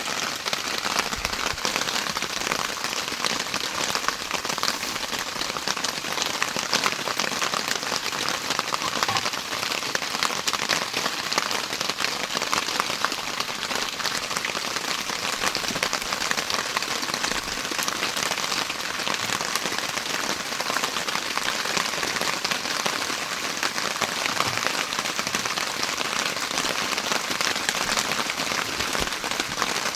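Heavy rain falling steadily: a dense, even hiss of many drops hitting surfaces, with no let-up.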